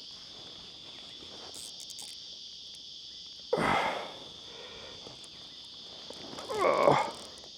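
Steady, high-pitched drone of an insect chorus, with two short, louder sounds over it about three and a half seconds in and again near the end.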